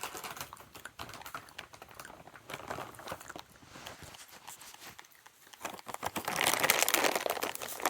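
Peanuts in the shell rustling and crackling, a dense run of small dry clicks, louder and busier from about six seconds in.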